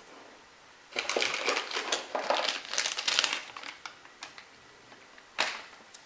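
Packaging crinkling and crumpling as it is handled, in a dense run lasting a few seconds, then one short rustle near the end.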